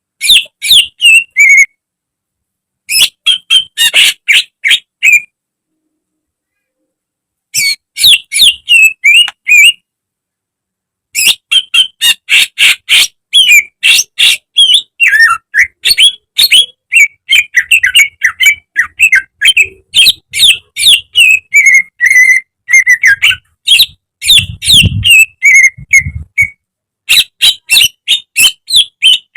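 Greater green leafbird (cucak ijo) singing: rapid strings of short, high sliding notes in bursts, broken by a few sudden silences of one to two seconds.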